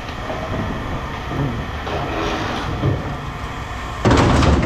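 Steady mechanical rumble of scrap yard machinery, with a loud crash of scrap metal lasting about half a second near the end.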